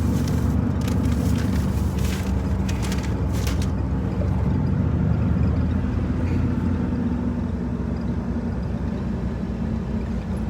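Steady low hum of a car's engine running, with a few sharp clicks or rustles in the first four seconds.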